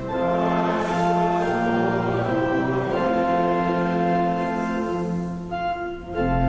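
Instrumental hymn music of sustained, changing chords, with a deep bass coming in near the end.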